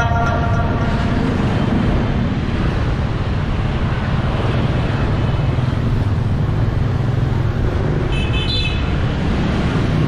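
Dense motorbike street traffic: a steady rumble of many small engines, with a short high beep about eight seconds in.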